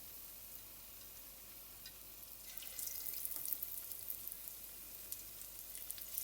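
Hot oil in a kadhai sizzling and crackling around gram-flour-battered chicken pieces frying, with sharp pops scattered through it. The sizzle grows louder about halfway through, as more pieces go into the oil.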